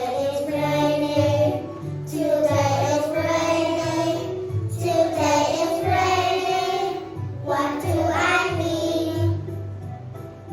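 Children's song: a child's voice singing four long, held lines over music with a steady bass beat.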